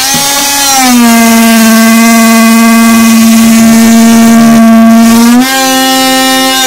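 Oscillating multi-tool running with a loud, steady whine, its blade pushed into the gap between squeaking wooden floorboards to cut along it. The pitch climbs as it comes up to speed and steps up slightly about five seconds in.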